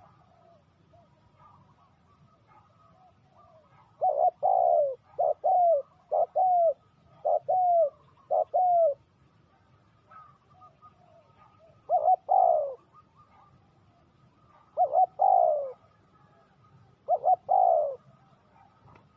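Spotted dove cooing in repeated phrases: a run of about five quick coo phrases, then three more spaced a few seconds apart.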